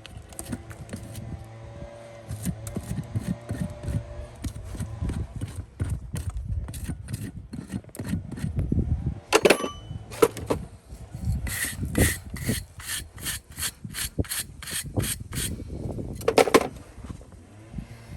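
Farrier's rasp scraping back and forth across a horse's hoof in repeated strokes, quicker and more regular for a few seconds past the middle.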